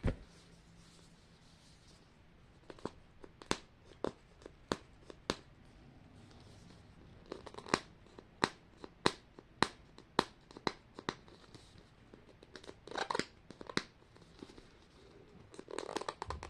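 Plastic packaging being handled and torn open: a string of sharp crinkles and clicks, then two denser bursts of crackling tearing later on.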